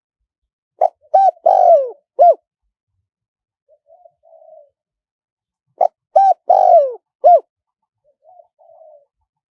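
Spotted dove cooing: two loud phrases about five seconds apart, each of four notes, the third long and falling in pitch, with soft, quiet coos in between.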